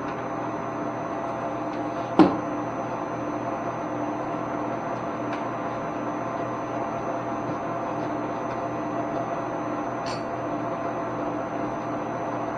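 A single sharp knock about two seconds in, with a fainter tick near the end, over a steady background hum.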